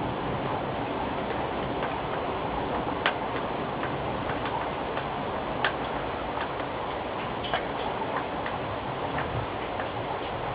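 Steady hiss of rain during a thunderstorm, with drips ticking irregularly, one or two a second, a few of them sharper.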